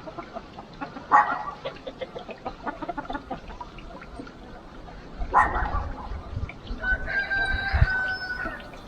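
Chickens clucking, with two loud squawks about a second in and around five seconds in, and a rooster crowing once near the end.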